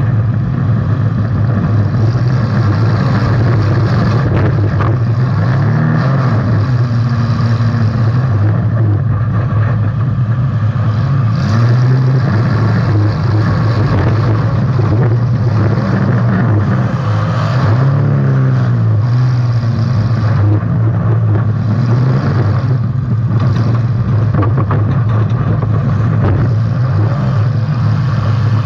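Demolition derby car's engine running hard, heard from inside the car, its pitch rising and falling as it revs up and down several times, with a few sudden knocks.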